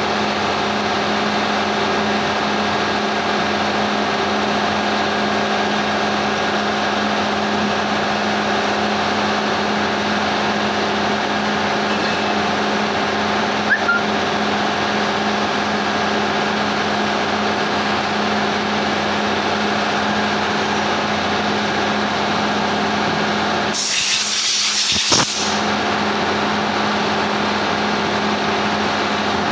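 A steady machine hum at one constant pitch, with a loud hiss lasting about a second and a half about three-quarters of the way through.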